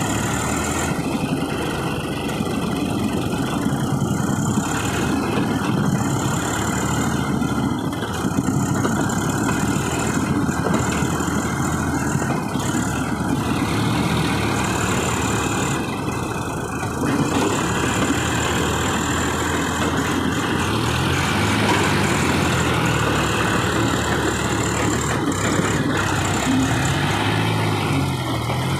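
Two three-cylinder diesel tractor engines, a John Deere 5050 D and a Swaraj 744 XT, running hard under load as the tractors pull against each other in a tug-of-war. The engine note is steady at first, then changes pitch in the last third.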